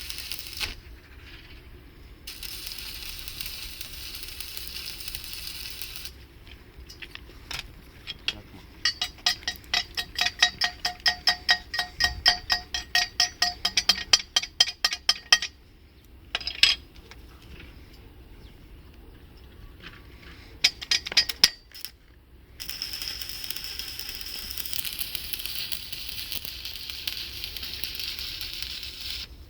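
Welding on a natural gas pipe: the welding arc sizzles and crackles in steady stretches. In between, a fast even run of sharp, ringing metal taps, about five or six a second, goes on for several seconds.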